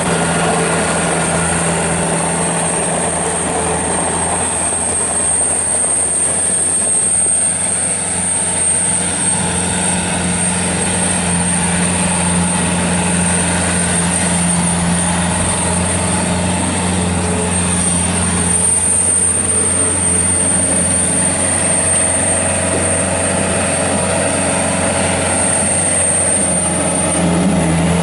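A Bobcat S185 skid steer loader's Kubota four-cylinder diesel runs at a fairly steady speed while the machine is driven. A thin, high, steady whine sits above the engine note.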